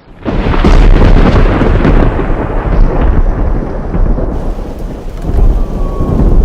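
Close thunder: a very loud clap bursts in suddenly just after the start, then a heavy, deep rumble rolls on and swells again near the end, over steady rain.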